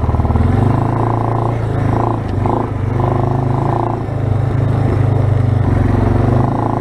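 2006 Suzuki Eiger 400 ATV's single-cylinder four-stroke engine running under way as the quad is ridden; the engine note dips and wavers for a moment around two seconds in, then steadies again.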